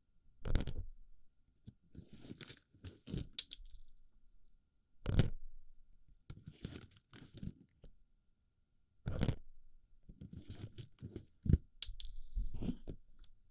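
Plastic BB pellets being pushed and rolled into a microphone's ear, heard very close as crunching, rattling scrapes. They come in irregular clusters, each opening with a sharp loud contact about every four seconds.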